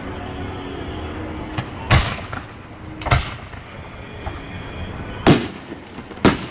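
Fireworks bursting in the air: a small crack, then four loud booms spaced one to two seconds apart, each trailing off in a short echo.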